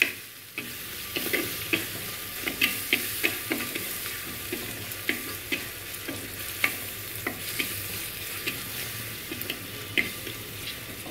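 Ground green chilli and coriander paste sizzling in hot oil in a clay pot, with a metal spoon stirring it and scraping against the pot in frequent short strokes.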